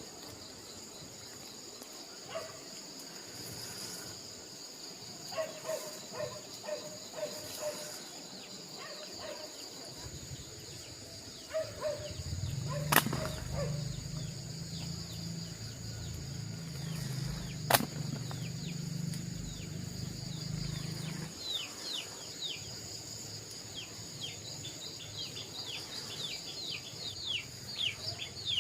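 Rural outdoor ambience: insects buzz steadily and high throughout, and birds chirp in quick falling notes toward the end. A low rumble runs through the middle, with two sharp clicks during it.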